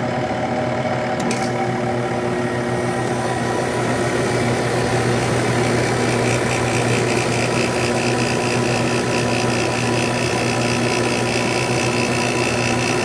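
1997 Sharp Comfort Touch window air conditioner running: its fan runs steadily, a click comes about a second in, and the Matsushita rotary compressor starts, the hum growing louder over the next few seconds with a higher whine joining in. It is a little loud, as it always is on its first start of the season.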